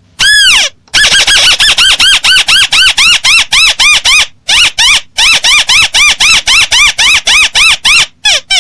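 Crake ('burung tikusan') lure call: one long swooping note, then a fast run of repeated arched, rising-and-falling whining notes about four a second, broken by two short pauses and ending in a few quicker, lower notes.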